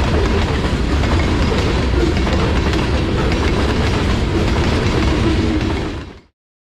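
Freight cars of a sand train rolling past on the track: a steady low rumble with wheels clattering over rail joints. The sound fades out quickly about six seconds in.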